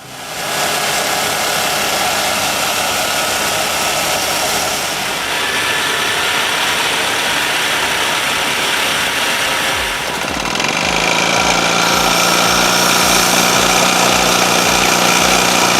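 Small engine of a homemade golf-cart-based saw running steadily as it powers the saw through wood. About ten seconds in the sound shifts to a steadier, slightly louder hum with a regular low pulsing.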